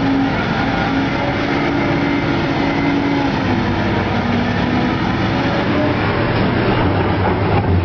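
Heavy diesel construction machinery running steadily under load, with its engine note shifting slightly in pitch.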